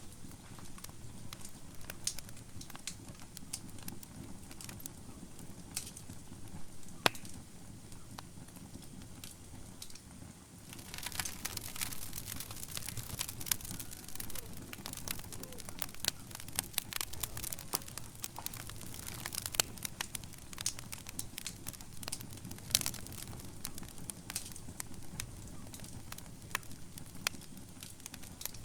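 Wood fire burning in a fireplace, crackling with irregular sharp pops over a low steady rumble of flame. The crackling grows denser and louder about eleven seconds in.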